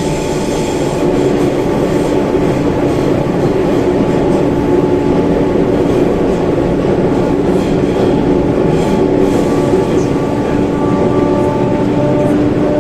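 Subway train running, heard from inside the passenger car: a steady loud rumble of wheels and track with a continuous motor hum, growing a little louder about a second in.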